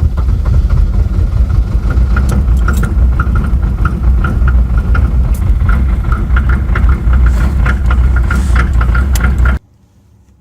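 Diesel engine running loud and rough just after a cold start: a deep rumble with irregular sharp knocks. It cuts off suddenly near the end.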